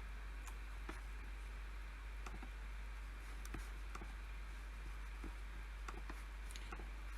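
Sparse, irregular clicks from someone working at a PC, about two a second, over a steady low hum.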